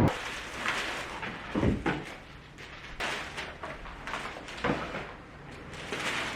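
Scattered light knocks and clicks of things being handled, with a soft thud a little under two seconds in and another about three-quarters of the way through.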